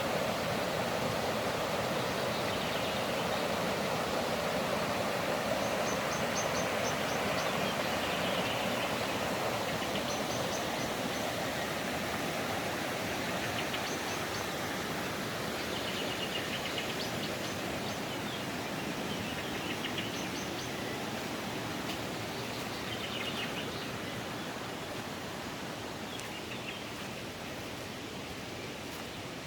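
Bistrica mountain stream rushing steadily, slowly growing quieter, with birds chirping briefly every few seconds.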